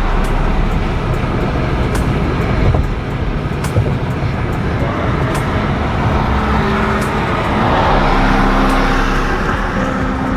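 A car driving, with steady road and engine noise. About three quarters of the way through, an engine note rises and then holds steady.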